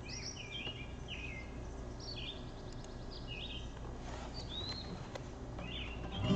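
A songbird singing short whistled phrases, about one a second, over a steady low background rumble.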